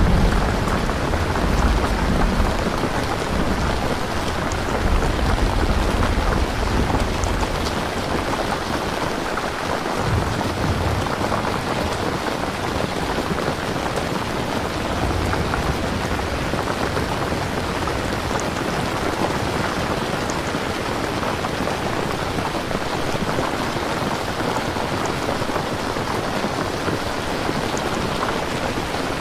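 Steady rain falling, with a low rumble of thunder through the first several seconds that dies away.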